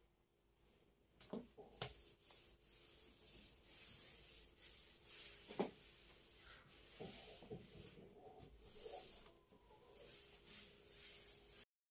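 Faint steady rubbing, like a cloth wiping a surface, with a few light knocks and taps scattered through it.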